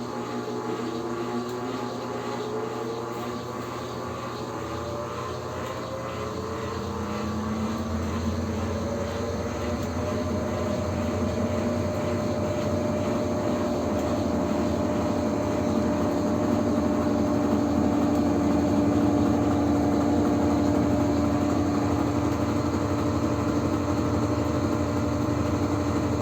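Washing machine spinning up to its spin speed: the motor and drum hum rises in pitch over the first ten seconds or so, then settles into a steady whir.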